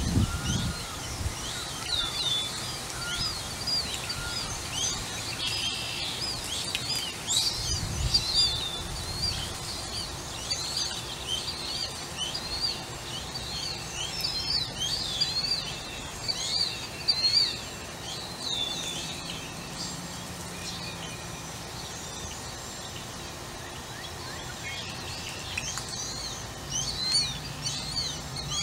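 Birds chirping: many short, high chirps in quick succession, thinning out past the middle and picking up again near the end.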